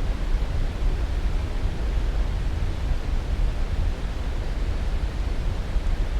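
Continuous, unchanging sleep-aid noise: an even rushing hiss with no breaks or events, heaviest in the deep low end and thinning toward the highs.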